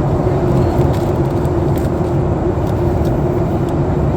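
Steady cabin noise of a Boeing 737 MAX 8 airliner in descent: an even rushing roar with a constant hum and a few faint ticks.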